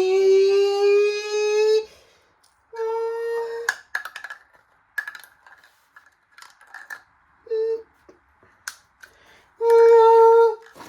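Washing-machine motor on a speed controller whining, its pitch rising slowly, then cutting out and coming back in short steady bursts. Between the bursts, loose knocks and clicks from the drum and panels.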